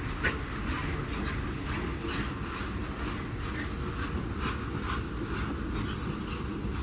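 Electric multiple unit local train running on the track: a steady rumble with wheel clicks over the rail joints coming about twice a second.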